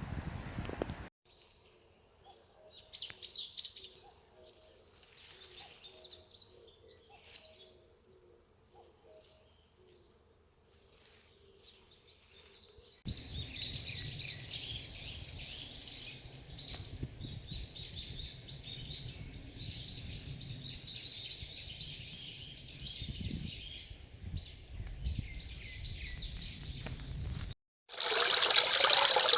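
Wild birds chirping and singing in spliced clips. First come scattered chirps with a soft repeated lower call, then about halfway through a denser, louder chorus over a low rumble. Near the end a loud rush of flowing water cuts in.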